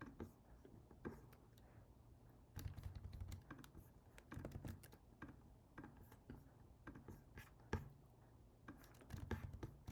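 Faint computer keyboard typing: scattered key clicks coming in short bursts with pauses between them.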